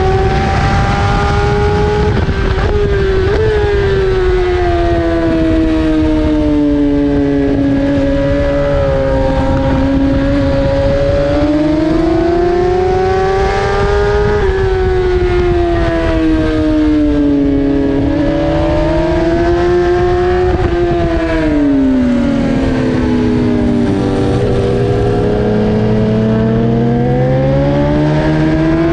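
BMW S1000RR's inline-four engine running hard on track, heard onboard. Its pitch climbs and falls with the throttle, with sudden pitch steps at gear changes about 2, 14 and 21 seconds in. Heavy wind rush runs underneath.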